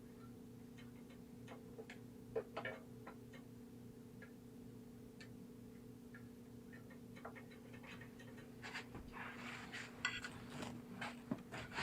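Scattered light clicks and taps of tools and small parts being handled, over a steady low hum, with busier clatter and rustling near the end.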